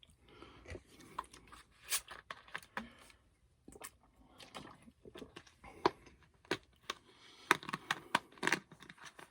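Paper being handled, crinkling and rustling with many short sharp crackles, the sound of comic book pages being turned.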